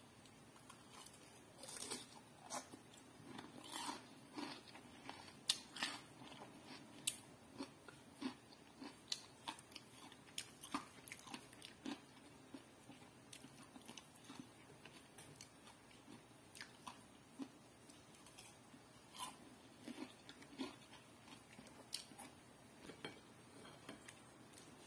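Someone biting into and chewing crispy breaded fried chicken skin: a run of irregular crunches, thickest in the first half and sparser toward the end.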